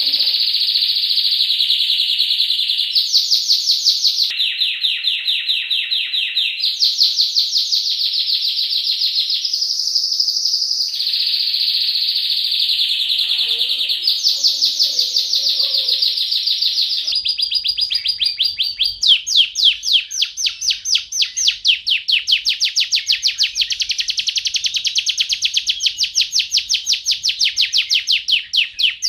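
Domestic canary singing a long, unbroken song of rapid trills, switching to a new phrase every second or two. About two-thirds of the way in, the recording changes to a faster, even trill with a faint low hum beneath it.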